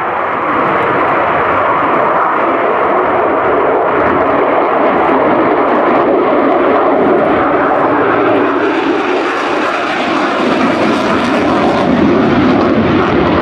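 Loud, steady jet roar of the Lockheed Martin F-35B Lightning II's single F135 turbofan as it flies its display, taking on more high hiss in the second half.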